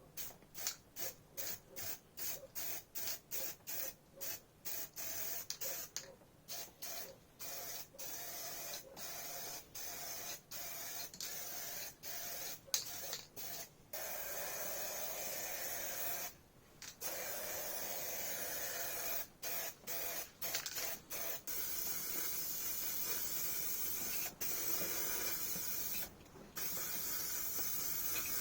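Paint spraying: hiss in many short bursts, turning after about half-way into longer continuous passes with brief pauses.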